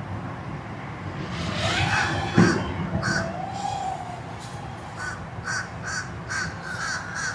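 A bird calling with short, harsh, caw-like calls that come quickly, about two to three a second, in the second half, over a steady low rumble of wind. A single sharp knock about two and a half seconds in is the loudest sound.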